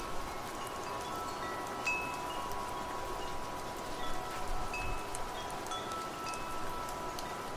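Wind chimes ringing irregularly, many short high tones struck here and there over a held lower ringing tone, with steady rain hiss underneath.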